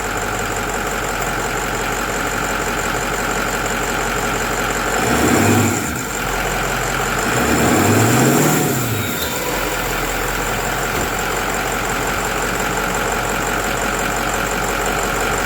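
Ford 6.0 Powerstroke V8 turbodiesel idling steadily, revved twice: a short blip about five seconds in, then a longer rev that rises and falls back to idle around eight to nine seconds in.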